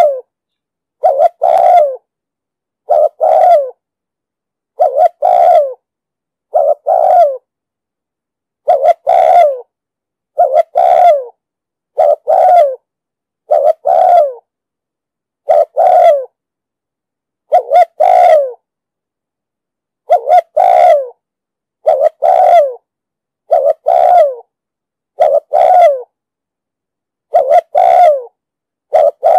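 Spotted dove cooing: short coos repeated about every one and a half to two seconds, with dead silence between them.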